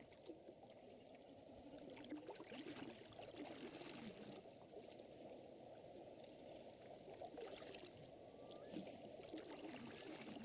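Soft, steady lapping and trickling of lake water, with light crackles of a wood fire.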